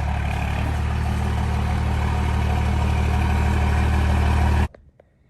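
Pickup truck engine running steadily with a low, even drone that cuts off abruptly near the end.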